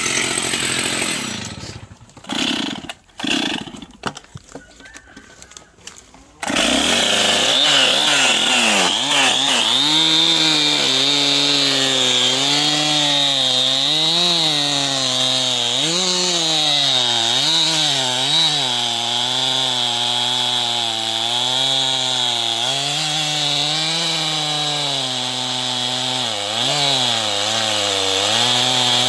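Stihl chainsaw running and cutting, its engine pitch dipping and rising as it takes load in the wood. It cuts in abruptly about six seconds in, after a few seconds of broken, choppy sound.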